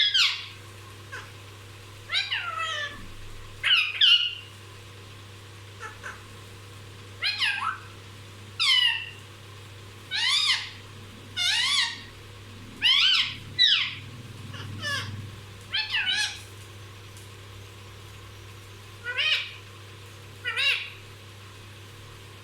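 Pet Indian parrot giving about a dozen short, high calls, each falling in pitch, in irregular groups with pauses between.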